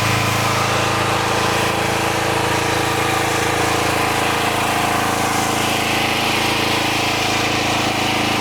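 Gas-engine pressure washer running steadily at a constant speed, with a steady hiss over the engine note.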